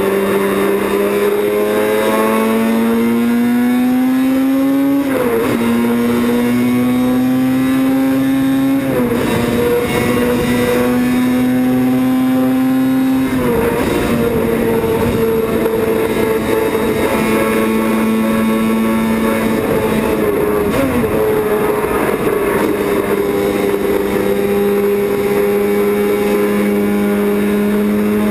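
Yamaha YZR750 OW31 two-stroke racing motorcycle engine under way at speed, its pitch climbing slowly and dropping sharply about four times as it shifts up through the gears.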